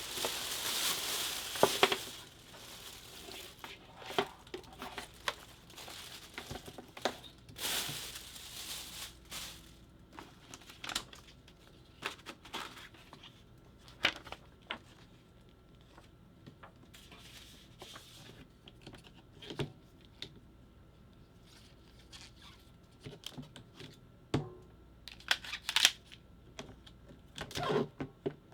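Packaging being torn and crinkled while a food dehydrator is unboxed, in rustling spells at the start, about eight seconds in and near the end, with scattered light knocks and clicks in between.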